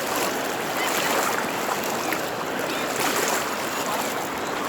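Floodwater flowing and splashing steadily through a flooded street, a continuous rushing of water.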